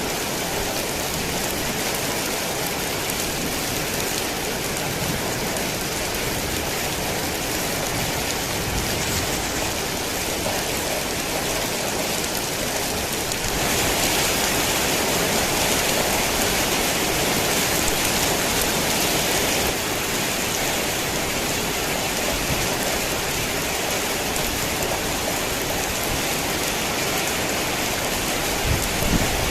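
Heavy rain falling steadily in a dense hiss. It grows louder for about six seconds in the middle, and a low rumble begins right at the end.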